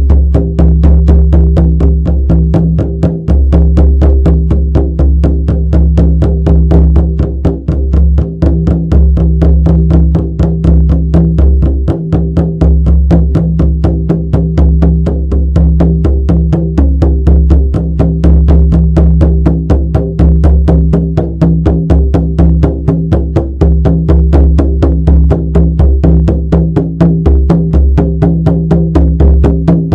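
Shamanic frame drum beaten in a fast, steady, even rhythm of about four strikes a second, with a low ring carrying on between the strikes.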